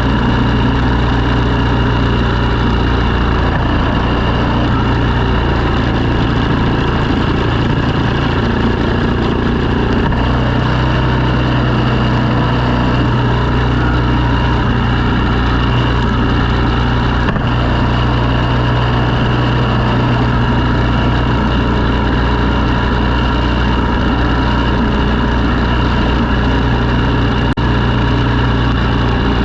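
An engine running steadily and loudly, with an even low hum and no change in speed, from snow-clearing machinery.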